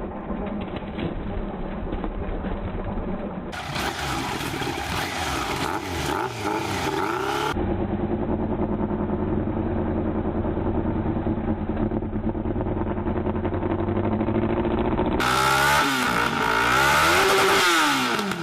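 Yamaha motorcycle engine running, revved up and back down twice: about four to seven seconds in and again near the end, with steady running between. The sound changes abruptly a few times, as at cuts between clips.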